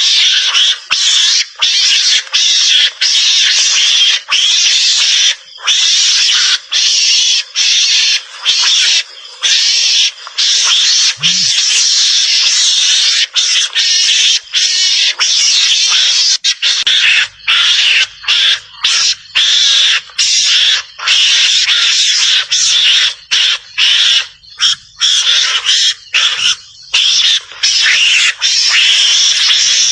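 Mongoose lure call: a loud stream of harsh, hissy chattering calls, broken by many brief pauses.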